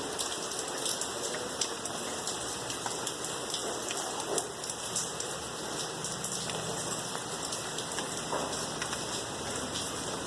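Steady rain falling, with many individual drops hitting a surface.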